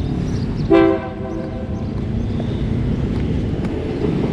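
Train running past with a steady low rumble, and one short, loud pitched tone a little under a second in.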